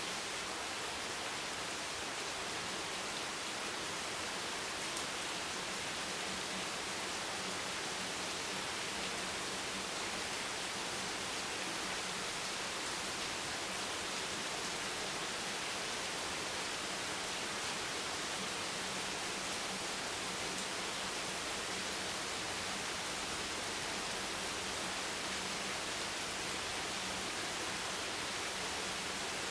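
Steady rain, an even unbroken hiss with no single drops, thunder or gusts standing out, over a faint low hum.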